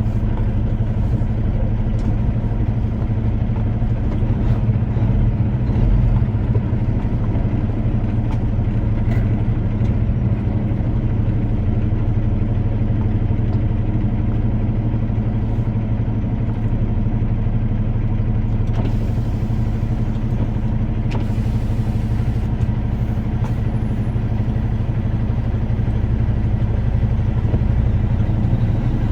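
Vehicle engine droning steadily at constant speed, with road and wind noise mixed in.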